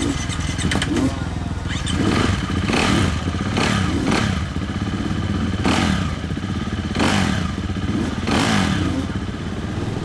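Dirt bike engines revving, swelling up and falling back about seven times over a steady low engine hum.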